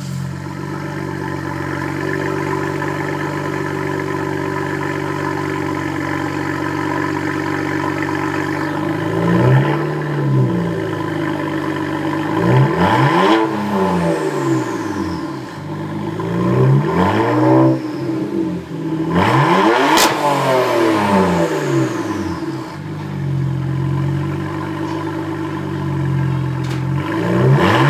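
BMW 335i turbocharged straight-six through an Eisenhaus race exhaust with VRSF downpipes. It idles steadily for about nine seconds, is then blipped up and back down four times, settles back to idle, and is revved once more near the end.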